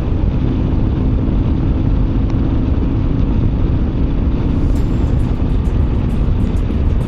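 Motorcycle riding at speed: a steady, loud rush of wind on the rider's microphone over the engine and road noise.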